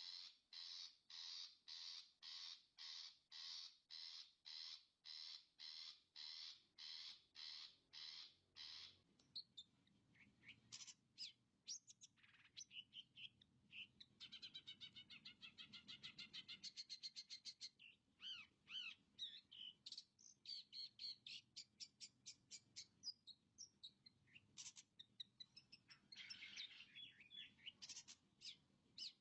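Long-tailed shrike (cendet) singing: a run of harsh, evenly repeated notes, about two a second, for the first nine seconds or so, then a varied, rapid chattering song of trills and quick rising and falling phrases.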